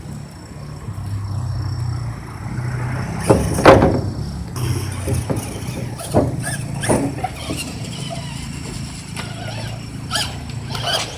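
Radio-controlled truck driving about, its motor running with a steady low hum under irregular knocks and clatter; the loudest clatter comes a little over three seconds in.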